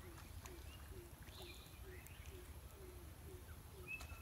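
Faint bird calls: a low note repeated two to three times a second, with a few short chirps partway through and a brighter whistled call near the end, over a low steady rumble.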